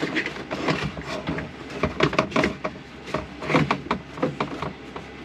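Seat belt hardware and plastic interior trim being handled and fitted, giving irregular clicks, knocks and rubbing.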